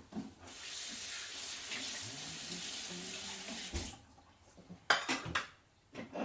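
Kitchen tap running into the sink for about three and a half seconds, then turned off, followed by a few sharp clinks of dishes or cutlery.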